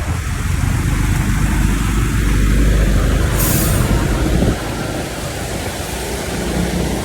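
Road traffic: a heavy vehicle's steady low rumble, with a short high hiss about three and a half seconds in, and the rumble dropping away about a second later.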